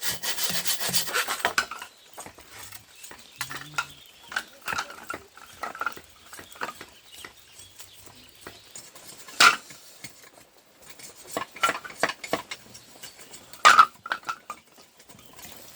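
Rasping, scraping hand work for about two seconds, then scattered light knocks and clicks, with two sharper, louder clicks later on.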